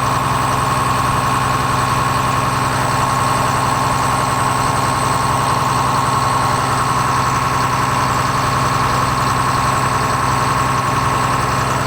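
Caterpillar C7 turbo-diesel engine of a school bus idling steadily, with a constant high-pitched whine held over the engine note.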